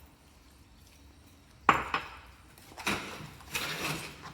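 Kitchen dishes and utensils being handled: a sharp knock about a second and a half in, a second knock just after, then more clattering and scraping near the end.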